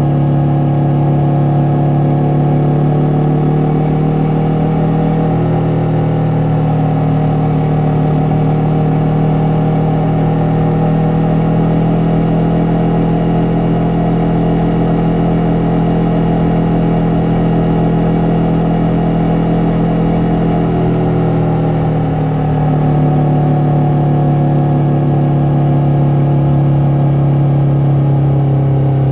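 Yamaha MT-03 motorcycle engine and exhaust under way at fairly steady revs. The pitch climbs slightly in the first few seconds, drops a little about three-quarters of the way through, then picks back up.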